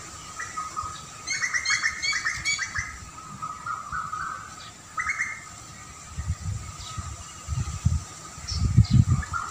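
Small bird chirping: a quick run of repeated notes about a second in, and a shorter call near five seconds. Low, gusty rumbling comes in over the second half and is loudest near the end.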